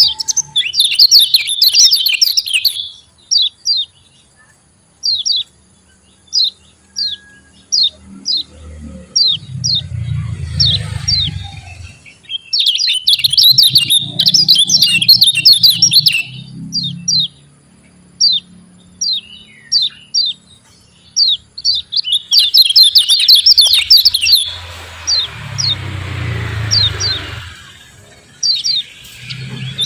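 Kecial kuning (Lombok yellow white-eye) singing its 'ciak ciak' call. Runs of single sharp high chirps build three times into fast, dense chattering bursts.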